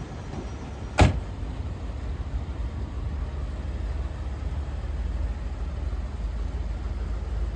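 1985 Rolls-Royce Silver Spirit's 6.75-litre V8 idling with a steady low rumble; the seller says the engine currently runs rough and needs a service. About a second in, a single sharp loud thump.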